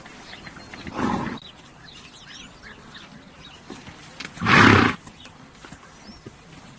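A horse blowing out hard through its nostrils twice, short noisy breaths about three seconds apart, the second louder. Faint bird chirps can be heard in between.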